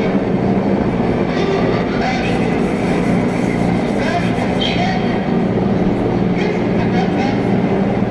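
Drone and industrial noise music: a dense wall of steady low held tones under a rumbling, hissing wash, with brief high whistling glints coming and going every second or two.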